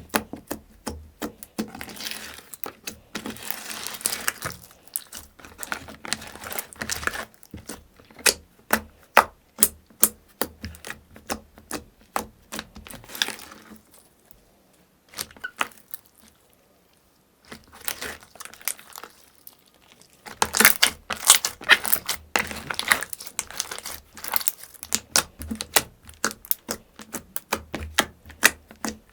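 Slime being squeezed and poked by hand: rapid runs of sticky clicks, pops and crackles, with a near-silent pause a little past the middle.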